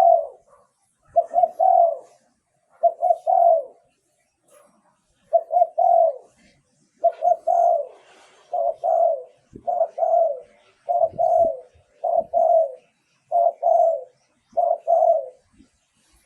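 Spotted dove cooing in a steady series of short phrases, each of two or three quick notes, repeated about every second and a half. This is the kind of call used as a decoy to lure wild doves.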